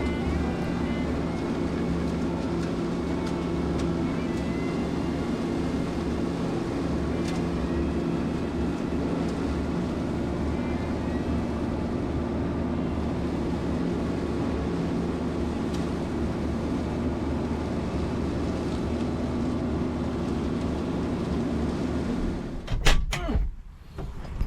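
Farm tractor's diesel engine running steadily, driving an ORSI flail mower on the side-mounted ditch bank arm. Near the end the sound stops abruptly with a couple of sharp clicks.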